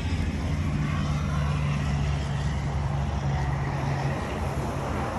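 Steady low engine rumble with road traffic noise. A deeper, stronger hum holds from about half a second in until about four seconds in.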